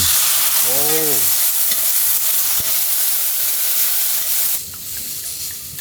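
Red wine hitting a hot pan of pasta sauce, sizzling loudly, then settling to a quieter sizzle about four and a half seconds in. A short exclamation about a second in.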